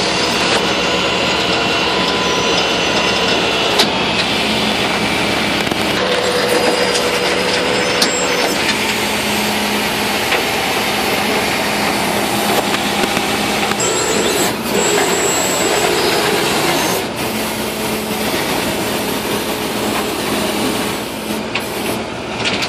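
A truck engine running steadily throughout, with a few sharp clanks along the way.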